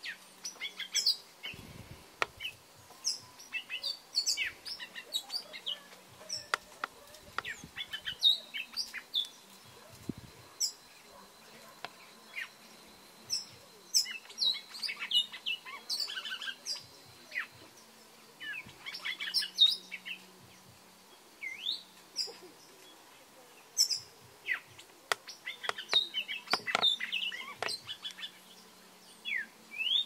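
Small birds chirping: many short, sharp chirps and quick rising whistles, coming irregularly and sometimes overlapping.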